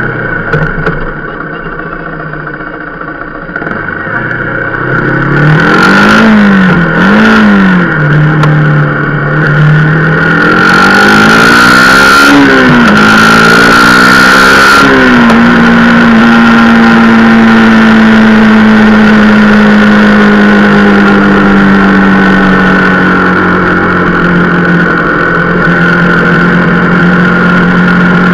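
Rieju Marathon Pro supermoto's engine running under way, revving up and back twice in quick succession, climbing again a little later, then settling into a steady cruise whose pitch slowly sinks. A rush of hissing noise, like wind on the microphone, rises over it for a few seconds in the middle.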